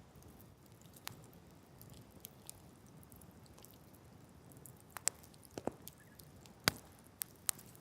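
Wood campfire crackling over a low hiss, with scattered sharp pops. They come sparsely at first and cluster from about five seconds in; the loudest pop falls a little before the end.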